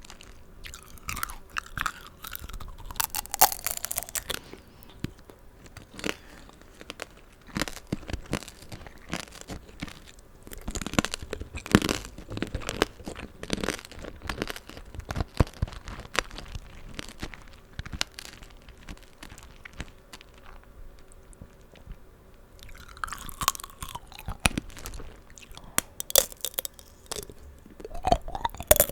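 Close-miked crunching and chewing of tanghulu, fruit coated in a hard sugar-candy shell: the glassy shell cracks into many sharp crackles between bites, with wet chewing of the fruit.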